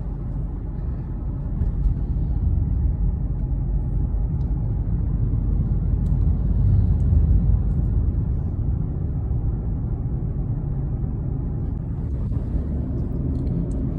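Car in motion heard from inside the cabin: a steady low rumble of engine and road noise, a little louder for several seconds after the start.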